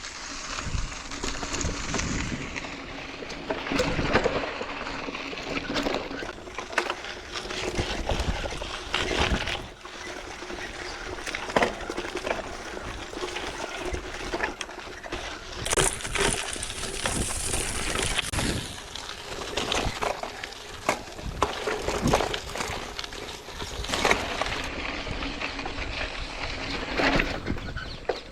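Mountain bike riding over a rough, rocky dirt trail: tyres grinding over dirt and stones, with frequent rattles and knocks from the bike.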